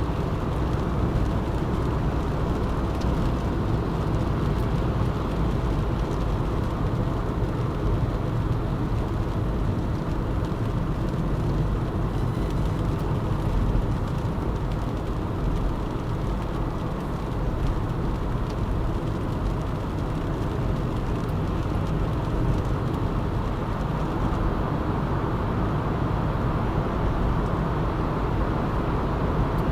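Steady road noise of a car driving at speed: tyre rumble and engine hum, with no distinct events.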